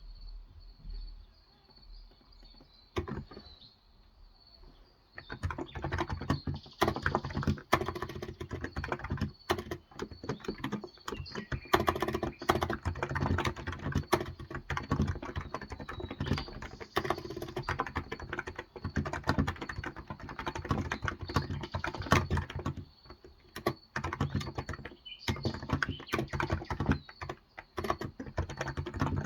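Cox Endeavor tenkeyless keyboard with 35 g electrostatic capacitive (Topre-style) switches being typed on in fast, continuous runs of keystrokes. After a quiet start with a single click, typing begins about five seconds in, with a couple of brief pauses near the end.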